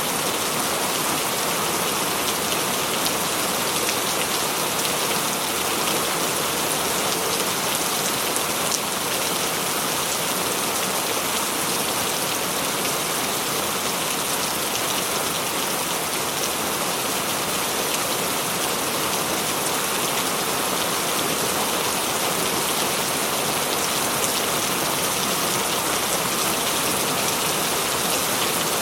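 Rain falling steadily, a dense even hiss of many drops.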